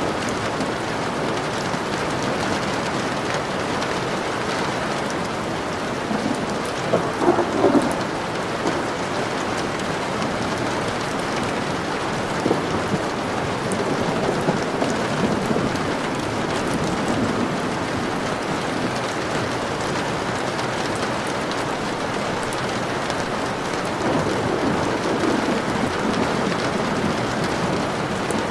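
Steady rainfall, with a brief louder swell about seven seconds in and a milder rise near the end.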